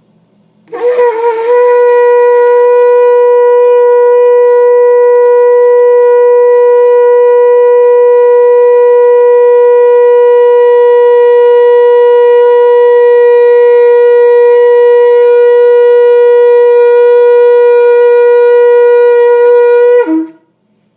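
Shofar blown in one long blast of about nineteen seconds. It wavers briefly as it starts, holds a single steady note with many overtones, and drops in pitch just as it cuts off.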